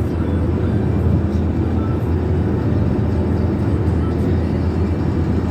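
Steady low rumble of car road and engine noise heard inside a moving car's cabin, with faint music playing underneath.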